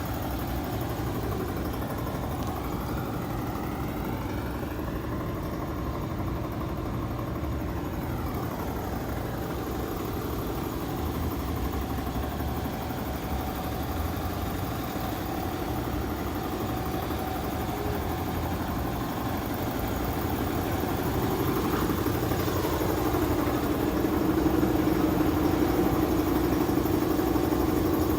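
Ford Expedition SUV's engine running steadily, with a hum that grows louder about three quarters of the way through.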